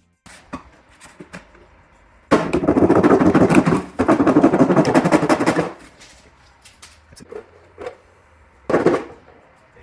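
Rapid mechanical clicking and rattling from hand work on the motorcycle, in two bursts of about a second and a half each, with scattered knocks between and a short burst near the end.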